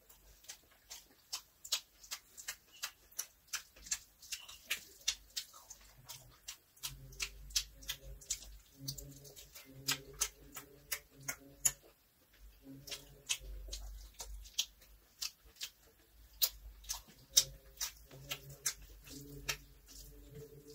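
Close-up mouth sounds of someone eating fried rice by hand: sharp lip-smacking and chewing clicks, about two or three a second. A low pulsing hum comes and goes in the background for long stretches in the middle.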